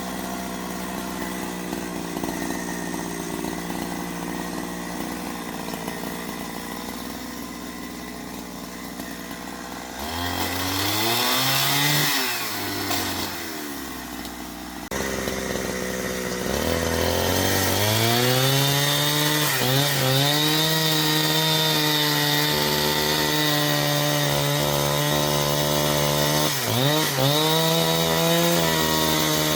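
Two-stroke chainsaw revving and cutting wood, its pitch dipping each time the chain bogs down in the cut. For the first ten seconds there is a lower, steady engine hum.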